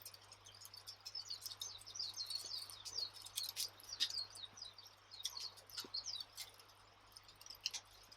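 Wood fire crackling with scattered sharp pops, with small birds chirping busily through the middle of it.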